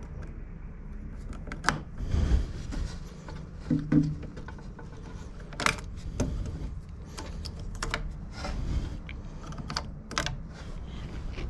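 Irregular clicks, taps and light rattles of hand tools and mower parts being handled during repair work, with a few sharper knocks about two, four, six and ten seconds in.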